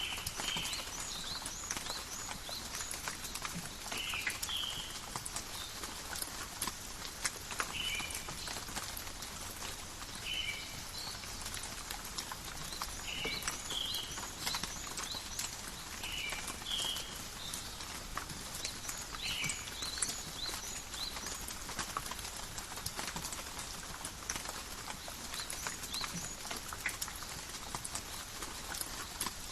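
Steady light rain in a forest, with many separate drops pattering and dripping. A short, high chirp repeats every few seconds over the rain.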